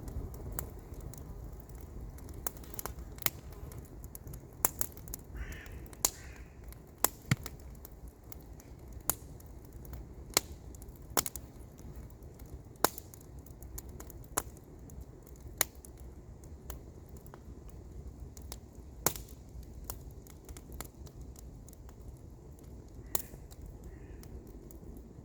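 Wood campfire crackling, with sharp single pops about every second over a steady low rumble. A crow caws once about five seconds in.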